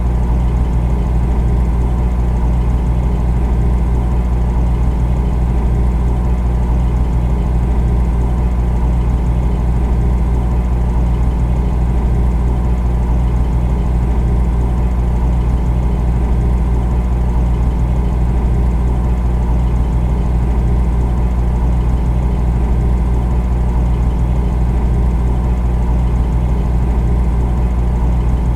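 Refrigerator running: a steady low hum that does not change.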